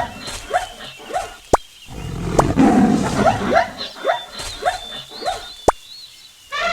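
Lion roaring: two full roars, each followed by a run of short grunts, about two a second, that fade away.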